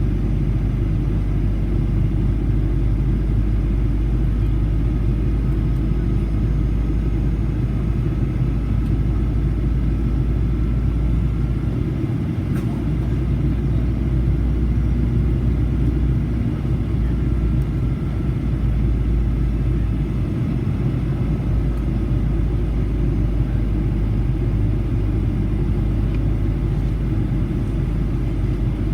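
Steady, loud low rumble of a Boeing 737-800's CFM56-7B engines heard from inside the passenger cabin, with a faint thin whine above it. There is a single light click about twelve seconds in.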